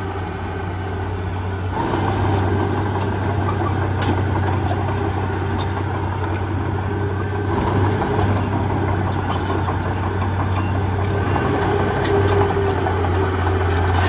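Heavy diesel engine running steadily, getting louder about two seconds in and again near eight seconds, with scattered light clicks over it.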